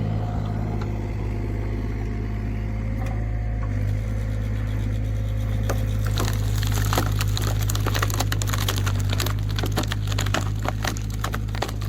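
Log splitter's engine running with a steady hum while wood cracks and splinters under the splitter. The cracking gets denser from about halfway through.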